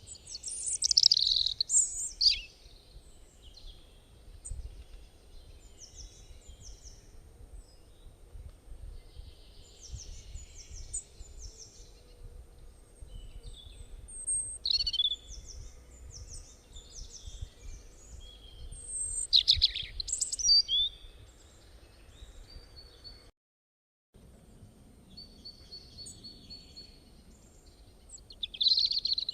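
Birds chirping and calling in quick high bursts, loudest right at the start and again about two-thirds through, with more chirps after a brief dropout near the end.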